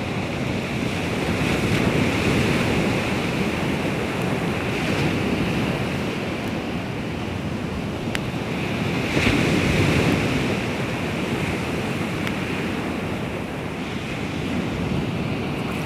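Baltic Sea waves washing onto the shore, with wind on the microphone; the surf swells louder about two seconds in and again about nine seconds in.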